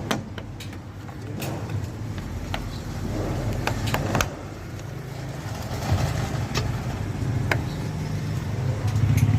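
A steady low mechanical hum, like a running motor or engine, with scattered sharp clicks and knocks. The hum grows louder near the end.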